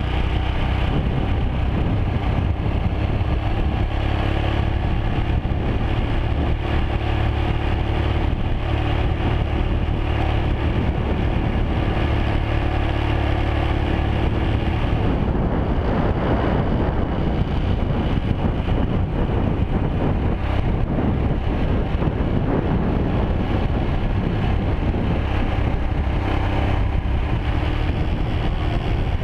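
Motorcycle engine running steadily while riding, with wind rushing over the microphone that grows louder about halfway through.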